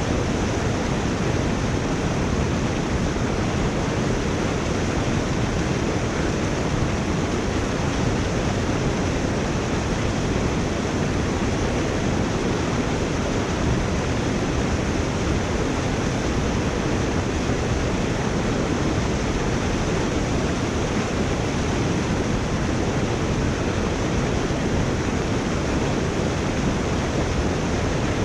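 Steady rush of water draining through a culvert.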